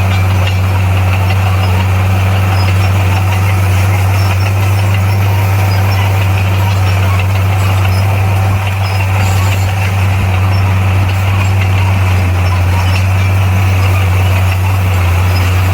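Bulldozer's diesel engine running steadily, a loud, deep, unbroken drone.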